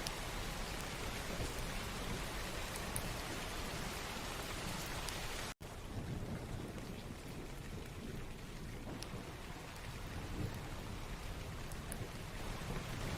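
Steady rain falling, with a low rumble underneath. About halfway through the sound cuts out for a split second, then the rain comes back a little duller, with a few single drops ticking.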